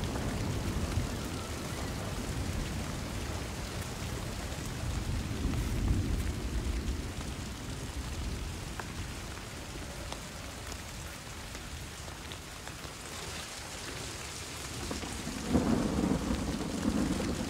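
Steady rain falling in a forest, with a deep rumble underneath that swells about six seconds in and again, louder, near the end.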